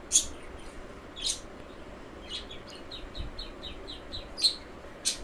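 Small birds chirping: a few sharp, high chirps, with a quick run of short falling chirps about four or five a second in the middle.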